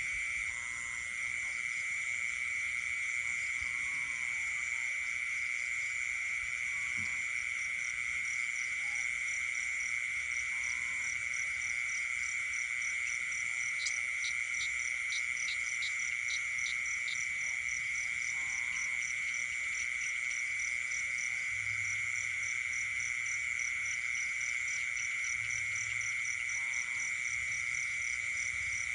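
Night chorus of frogs and insects: a steady high-pitched drone, a fast, even pulsing trill above it, and scattered short croaks lower down. A quick run of about eight clicks comes in the middle.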